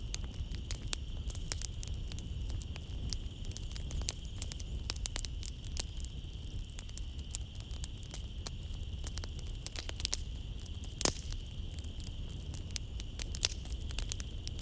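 Wood fire crackling in a fireplace: frequent sharp pops and snaps, with one louder pop about eleven seconds in, over a low steady rumble. A steady high drone of night insects runs underneath.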